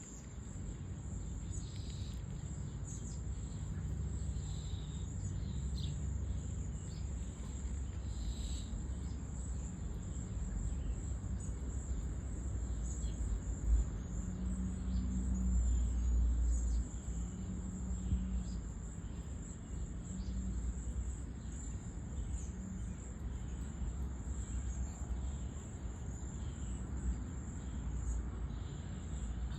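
Backyard ambience: a steady, high-pitched insect chorus with a few short bird calls over a low background rumble.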